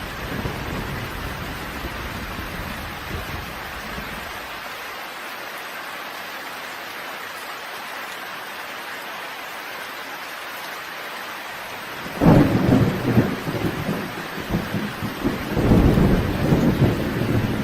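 Steady rain falling in a thunderstorm. A low rumble of thunder fades out over the first few seconds, then a sudden loud thunderclap breaks about twelve seconds in and rumbles on, swelling again a few seconds later.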